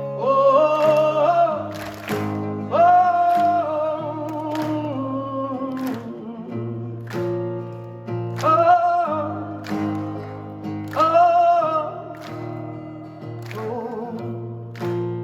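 Live rock band playing: a male singer holds long wordless "oh" notes with vibrato, each sliding up at its start, over drums, bass and guitar.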